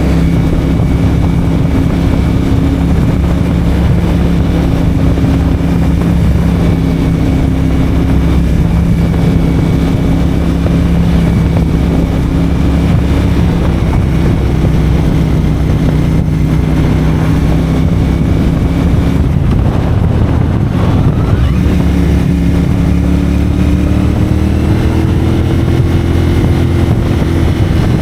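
CFMoto 450SR's 449 cc parallel-twin engine through a Yoshimura AT2 slip-on exhaust, running at steady cruising revs. About twenty seconds in the revs drop briefly, then rise steadily as the bike accelerates.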